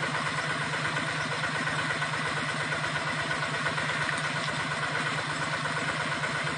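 An engine idling steadily, with an even low hum and a fast, regular pulsing.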